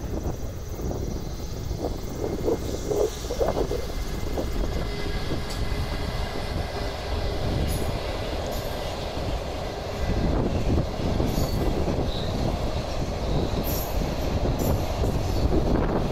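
Container freight train hauled by a JR Freight EF210 electric locomotive running across a steel truss railway bridge: a steady rumble of wheels on the rails and bridge, with a few squeaks early on, getting louder about ten seconds in as the container wagons pass.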